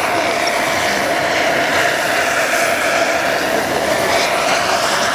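Radio-controlled model helicopter flying, its engine and rotor giving a steady, loud noise with a constant whine running through it.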